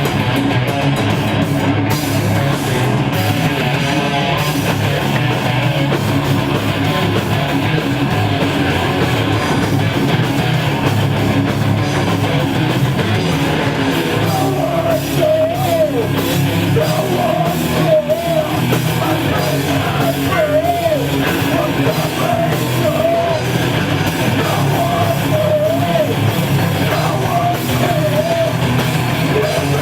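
A heavy metal band playing live: distorted electric guitars, bass and drums at a steady, loud level. From about halfway in, a wavering high melodic line repeats over the band.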